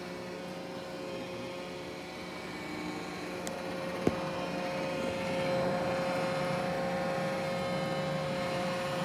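iRobot Roomba j7+ robot vacuum running, a steady motor-and-brush hum with a whine, growing louder from about three seconds in. A single sharp click about four seconds in.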